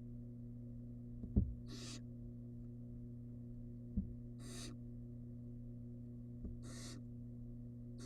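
Barn owl nestling giving short, raspy begging hisses in the nest box, three of them spaced about two and a half seconds apart. Low thumps, the loudest about a second and a half in, come from movement against the box, over a steady electrical hum.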